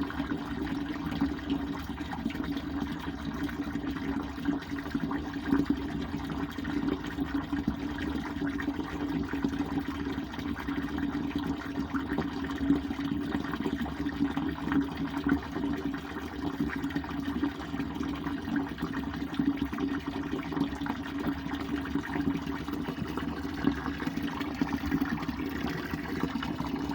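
Ridgeyard portable gas tankless water heater running with a tap open: a steady rush of water flowing through it and the burner lit, with a low hum.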